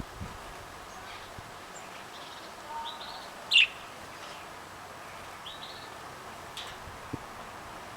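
Caged canaries giving scattered short chirps and call notes, the loudest a brief falling call about three and a half seconds in.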